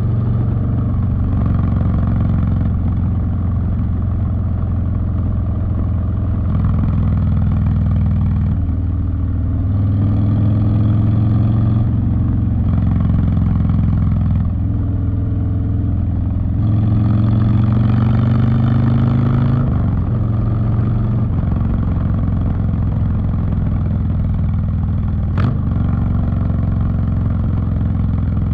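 Harley-Davidson Street Bob's V-twin engine running through a TBR 2-into-1 exhaust while riding, the pitch stepping up and down as the throttle and gears change, with two stretches of rising pitch under acceleration. A single sharp click sounds near the end.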